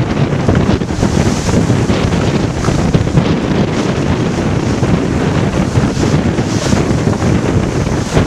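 Strong wind buffeting the microphone on a sailboat under way in rough water, with waves rushing and splashing along the hull. The gusty rumble is loud and steady.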